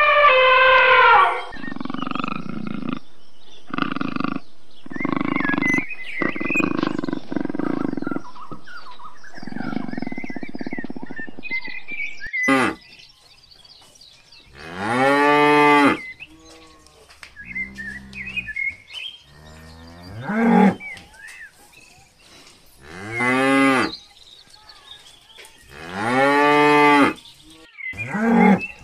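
African buffalo lowing: several long, moo-like bellows that rise and then fall in pitch, with shorter grunting calls and quiet gaps between them. Before that, in the first dozen seconds, a loud pitched call gives way to several seconds of lower, rougher animal calls.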